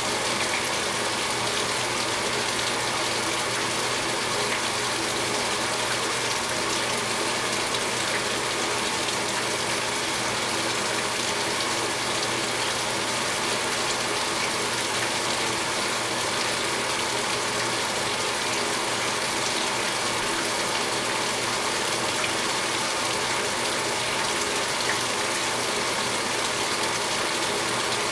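2015 Speed Queen 8 Series top-load washing machine filling its tub, a steady gush of water pouring in with a low, even hum underneath.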